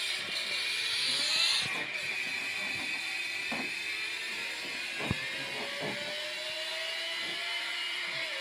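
Lexus LFA's 4.8-litre V10 engine pulling at high revs, its high-pitched note climbing slowly as the car accelerates.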